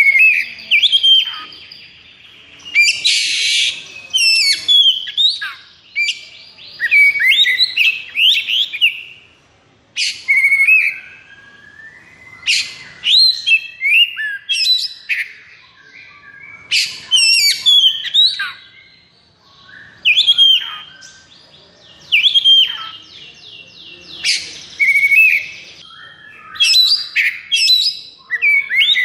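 Oriental magpie-robin (kacer) singing hard and fast: loud phrases of quick whistled notes mixed with harsh, rattling buzzes, coming in bursts of a second or two with brief pauses between them. This is the aggressive, non-stop 'konslet' song of a male in high fighting mood.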